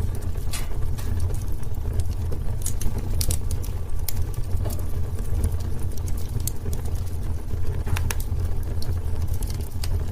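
Wood fire burning in a fireplace: a steady low rumble of flames with scattered sharp crackles and pops, a few louder ones about three seconds in and near eight seconds.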